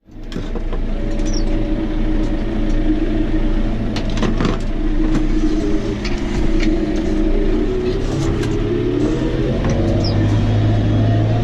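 John Deere tractor's diesel engine running steadily, with a few knocks and rattles about four seconds in. The engine speed rises a little near the end.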